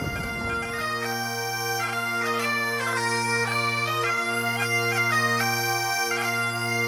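Bagpipes playing a slow tune: a melody with quick grace notes over steady drones that come in about a second in.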